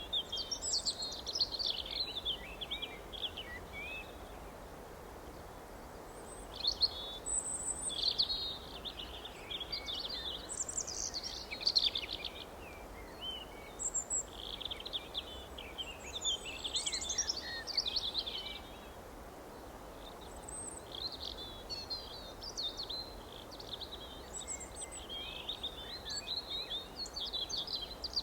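Birds chirping and singing: several overlapping songbirds give quick runs of high chirps and trills, with two short lulls, one about a sixth of the way in and one a little past halfway. A steady low background hiss and rumble runs underneath.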